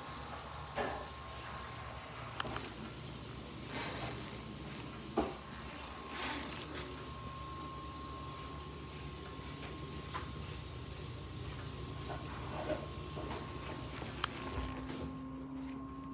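Honda CBR400R's parallel-twin engine idling steadily under a constant hiss, with a few light clicks. About a second before the end, a sharp click comes and the hiss drops away.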